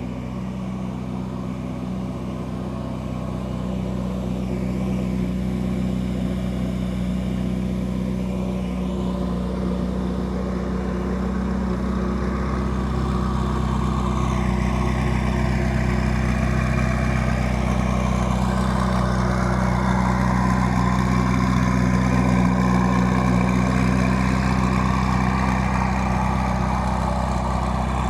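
Ferrari 488 GTB's 3.9-litre twin-turbo V8 running steadily at low, even revs, growing gradually louder.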